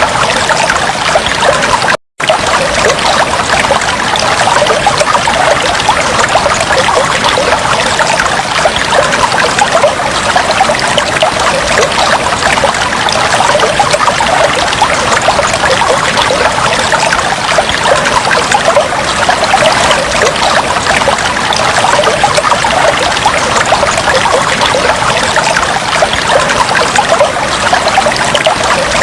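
Fish tank water trickling steadily, a dense stream of small splashes. It cuts out completely for a moment about two seconds in.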